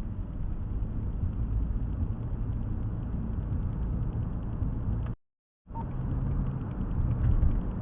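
Car engine and road noise heard from inside the cabin while driving: a steady low rumble with a faint engine hum. About five seconds in the sound drops out completely for half a second, then resumes.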